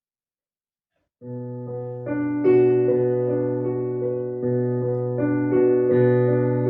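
Silence, then about a second in an instrumental piece starts on a keyboard instrument: held chords over a steady bass note, changing every second or so.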